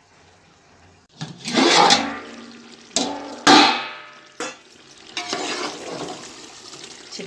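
Chicken dry fry sizzling in a pot on the stove. Two loud surges of sizzling come about one second and three and a half seconds in and fade away, then a steadier, quieter sizzle follows.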